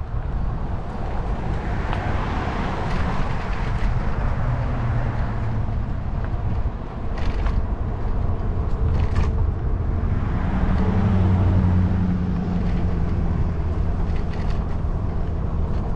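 Steady wind and road rumble from riding an e-bike, with a motor vehicle's engine growing louder for a few seconds from about ten seconds in as it passes.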